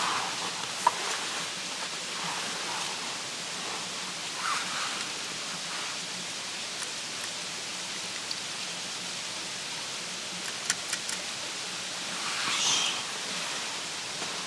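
A steady, even rushing hiss, like running water, with a few sharp clicks a little past the middle.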